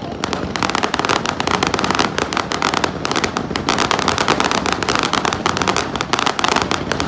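Fireworks crackling: a rapid, unbroken string of small sharp pops that starts a moment in.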